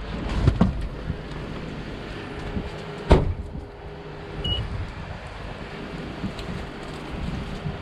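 A car door shutting with one sharp thump about three seconds in, with a few lighter knocks before it, while the remote-started 2017 Honda CR-V idles with a faint steady hum. A short high beep sounds about a second after the thump.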